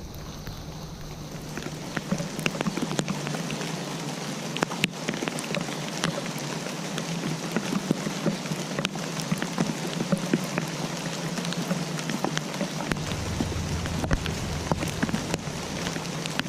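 Steady rain falling, with many individual drops ticking sharply on a surface. A low rumble joins in near the end.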